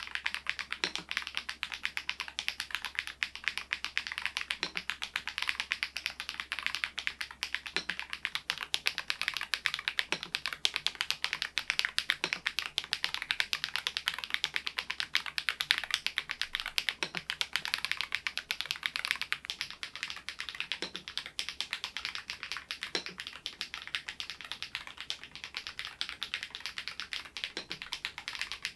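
Continuous typing on a SMURVE80 retro mechanical keyboard, its own switches without the solenoid module: a fast, steady run of key clicks, with a deeper key stroke now and then.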